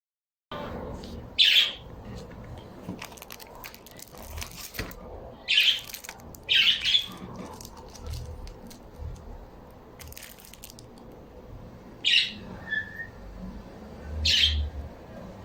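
Pet birds giving short, high calls, about five of them spaced a few seconds apart.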